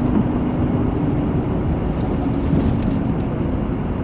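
Steady engine and road noise of a vehicle driving, with a low, even hum throughout.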